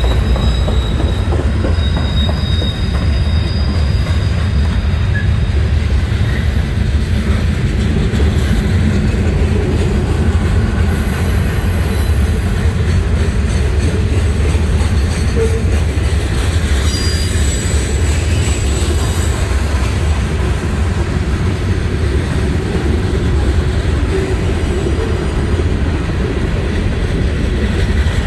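Freight cars of a CSX manifest train rolling past: a loud, steady low rumble of steel wheels on the rails. Thin, high wheel squeals come and go over it, near the start and again around the middle.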